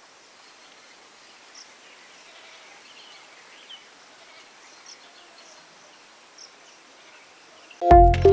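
Quiet outdoor ambience with faint, short, high chirps every second or so, then loud electronic music cuts in near the end.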